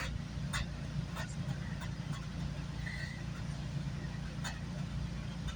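GO Transit commuter train running at speed, heard from inside the coach: a steady low drone with scattered clicks and knocks.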